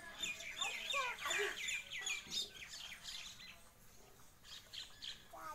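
Birds chirping: a rapid run of short, high chirps for about three seconds, then fewer and sparser.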